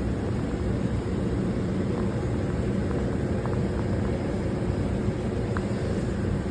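Steady low mechanical hum, like an engine or a fan running, with a few faint ticks.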